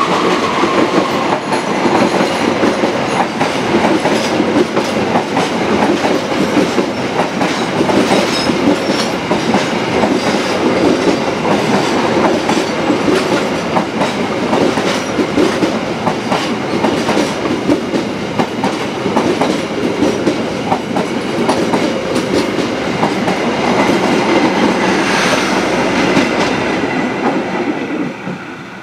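Passenger train of stainless-steel coaches passing close by, its wheels clicking over the rail joints in a steady run of clicks above dense rolling noise. The noise drops away near the end as the last coach goes past.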